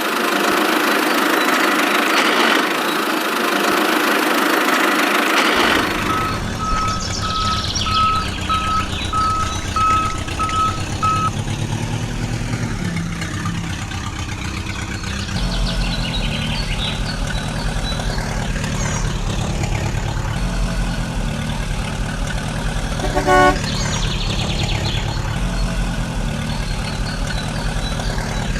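A harsh, even noise for the first five seconds or so, then a vehicle engine running with a low pulsing beat. A string of evenly spaced reversing-style beeps plays for about five seconds, and a short horn toot sounds near the end.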